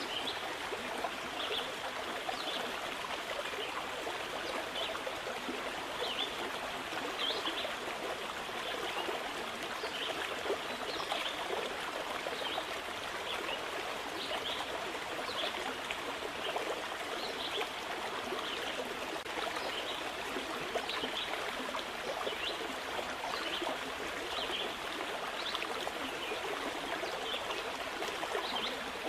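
Flowing stream: a steady rush and trickle of running water with many small bright splashes.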